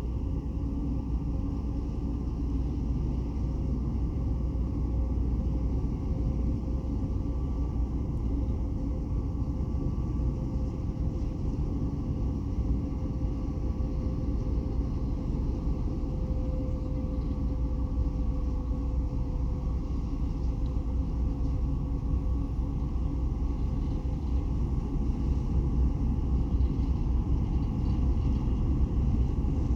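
A ferry's engines running as it comes into port: a steady low rumble with a faint hum over it, growing a little louder near the end.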